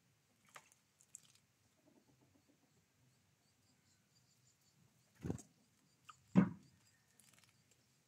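Two dull knocks about a second apart, a little past the middle, the second louder, with faint light taps around them, as a great tit moves about in a shallow water dish on a feeding tray.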